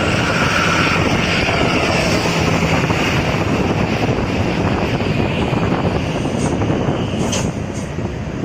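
Vehicle driving on the road: steady engine and road noise, with a few brief clicks near the end.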